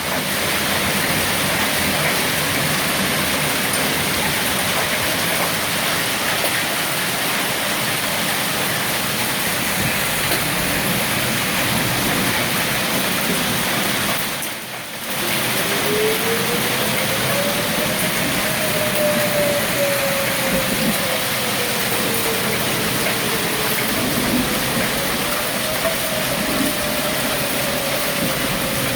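Hail and heavy rain pelting down in a dense, steady hiss. About halfway through, a siren starts wailing, slowly rising and falling in pitch twice over the rain.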